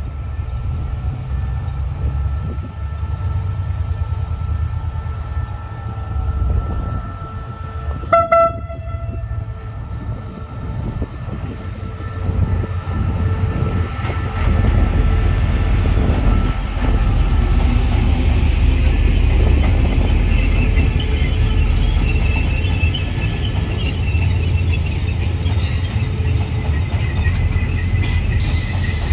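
Diesel locomotive of a special train hauling a railway crane car: a steady rumble as it comes on, and one short horn blast about eight seconds in. Then louder wheel and rail noise as the train passes, with a thin high squeal and a few clicks of wheels over rail joints near the end.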